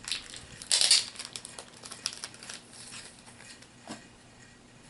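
Crinkling and rustling of plastic packaging being handled, loudest about a second in, then fainter small clicks and handling noises.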